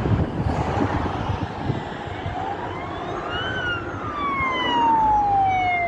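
Siren wailing in a slow rise and fall of pitch, climbing to a peak about three and a half seconds in and then gliding slowly down, over a loud low rumble.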